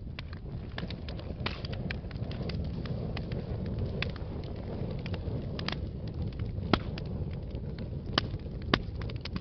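Wood fire burning in a fireplace: a steady low rumble of flames with frequent small crackles and a few louder sharp pops, the biggest about two-thirds of the way in and near the end.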